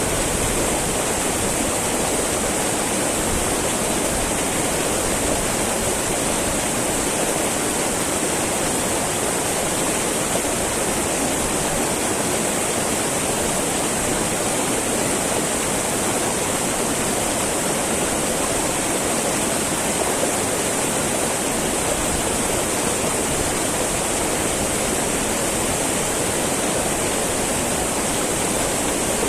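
Small mountain river babbling over rocks, a steady, unbroken rush of flowing water.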